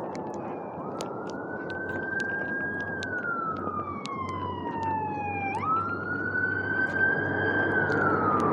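Emergency vehicle siren wailing, its pitch slowly rising, holding and falling, then jumping back up about halfway through for a second cycle, over a steady rush of background noise.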